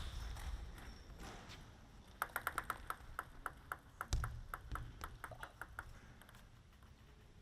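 A table tennis ball bounced over and over in a quick, even run of small pings, about five a second, for roughly four seconds, with one duller thud partway through.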